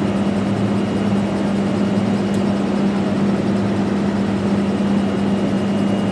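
Steady drone of a Bombardier Challenger 300 business jet's twin turbofan engines, with a constant low hum and a faint high whine.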